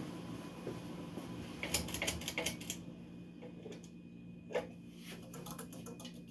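Codep 100 series Galaxy ceiling fan running on high in reverse, its motor humming steadily. A burst of rapid clicking comes about two seconds in, and a run of quick, evenly spaced ticks starts near the end.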